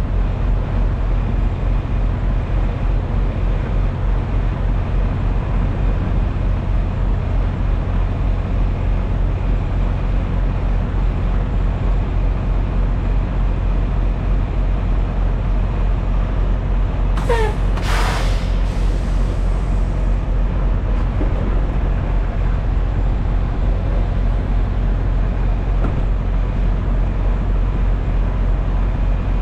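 A semi truck's diesel engine running with a steady low drone. About 17 seconds in comes a short squeal sliding down in pitch, then a sharp hiss of air from the truck's air brake system.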